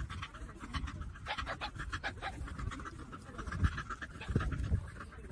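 A dog panting rapidly, with quick, even breaths.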